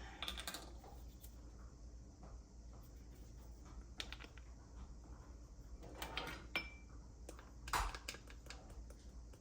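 Faint kitchen handling noises as dried dill weed is measured into a pan of brine: a measuring spoon and spice container being handled, with scattered clicks and rustles. There is a brief ringing metal clink about six and a half seconds in, and the loudest rustle comes near eight seconds.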